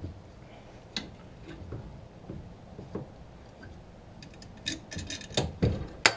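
Hand tools working on the car's bolts: scattered metallic clicks and ticks, then a quick run of clicks and two louder knocks near the end.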